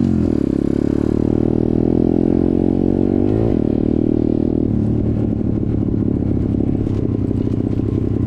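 Off-road motorcycle engine running under way on a trail, its pitch rising and falling with the throttle. It climbs about three seconds in, then settles to a steadier, rougher note about five seconds in.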